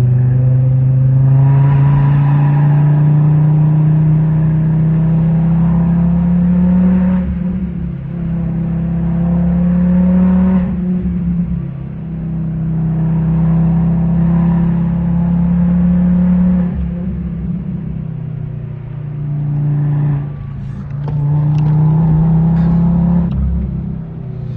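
Volkswagen Jetta Mk6's 2.5-litre inline five-cylinder engine pulling under load. Its note climbs slowly, drops back and climbs again about four times, as with gear changes.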